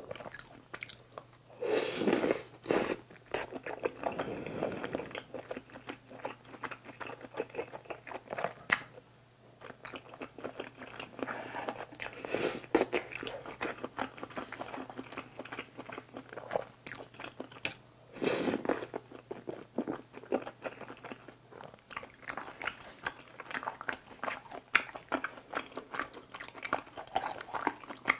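Close-miked eating sounds of tteokbokki topped with pizza: chewing and biting of chewy rice cakes in spicy sauce, with several louder bursts of mouth noise spread through.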